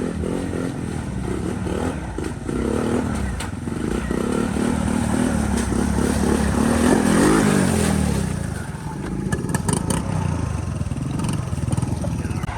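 Honda CRF450RL dirt bike's single-cylinder four-stroke engine running and revving. It climbs in pitch to its loudest about seven seconds in, then backs off. A few sharp clicks sound near the end.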